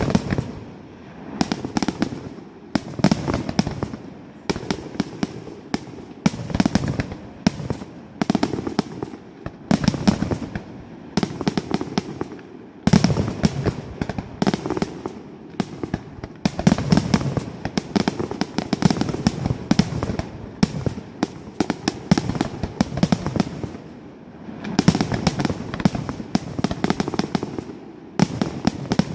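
Fireworks display: a rapid, near-continuous string of bangs and pops from bursting shells, coming in dense clusters with brief lulls between.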